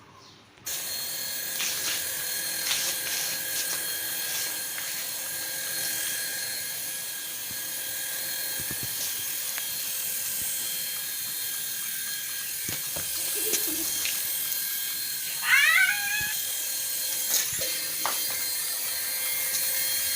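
Small electric motor and rotor of a toy remote-control helicopter starting about a second in, then running with a steady whirring whine. About three quarters of the way through, a short high call rises and falls in pitch; it is the loudest sound.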